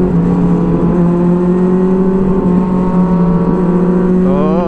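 Superbike engine running at a steady cruising speed while riding, one even engine note held with little change, over wind rush.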